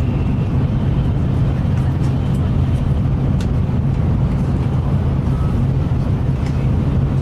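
Shinkansen bullet train running at speed, heard inside the passenger car: a steady low rumble and rush of running noise with a few faint ticks.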